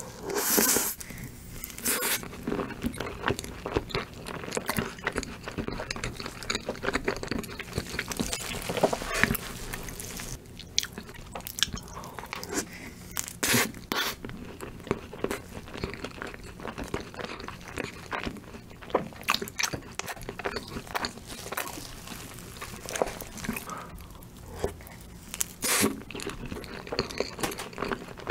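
Close-miked chewing of a mouthful of Oreo cream cake with crunchy cookie pieces, made up of irregular sharp crunches and crackles.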